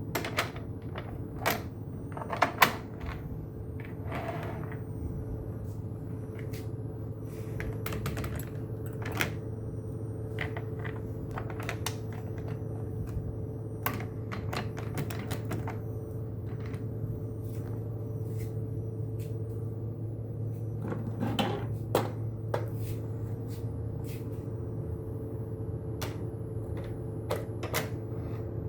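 Model train layout running: a steady electric hum with many irregular sharp clicks and clacks, louder for a moment near the start and again about three quarters of the way through.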